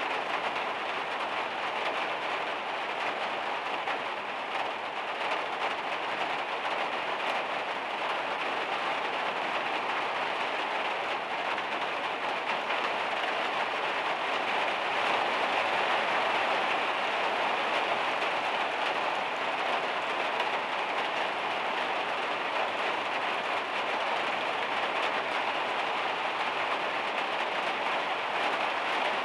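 Heavy rain hitting the metal roof of a camper van: a steady, dense patter that swells slightly about halfway through.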